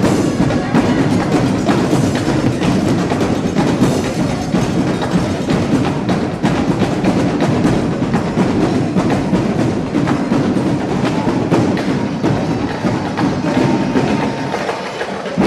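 Drum section playing a fast, busy percussion cadence, dense with sharp stick and drum strikes.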